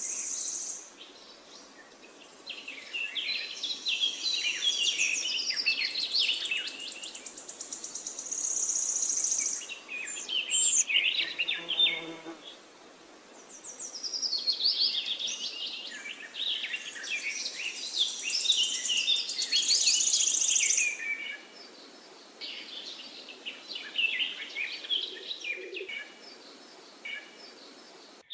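Many birds chirping and trilling at once in a dense, rapid chorus, with a high, buzzing trill that comes and goes; the calling swells and thins out in waves.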